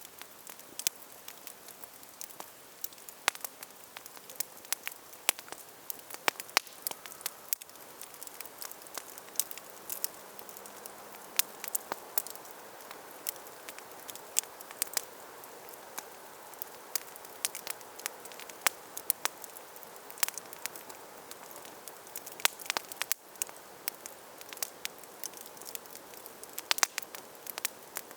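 Wood campfire burning: a soft steady hiss of flames with frequent sharp, irregular crackles and pops.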